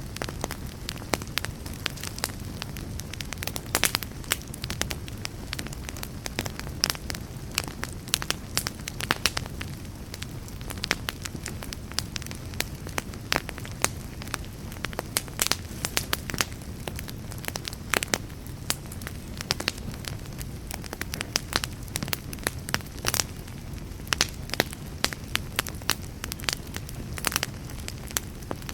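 Wood fire burning, with frequent sharp crackles and pops at irregular intervals over a steady low rumble of the flames.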